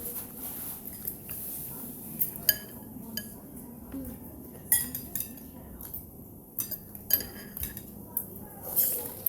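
Cutlery clinking against dishes while eating noodle soup: scattered sharp clinks, some with a short ring, over low room background.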